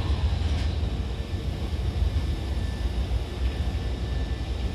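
Steady low rumble and hum of a station platform with a Hankyu 1000 series electric train standing at it, with a faint steady high tone and a few light clicks near the start.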